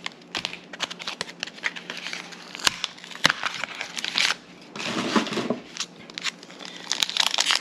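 Plastic packaging of Pokémon card packs crinkling and crackling as it is handled and opened, with many irregular sharp clicks.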